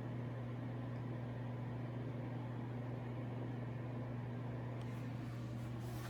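A steady low hum, with a couple of faint rustles or clicks near the end.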